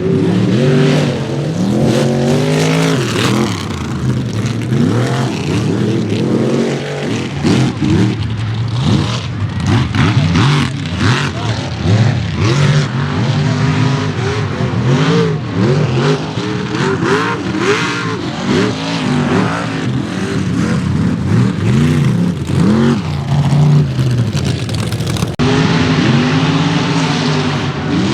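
Mega mud truck engines revving hard, their pitch climbing and dropping over and over, with the sound changing abruptly about 25 seconds in.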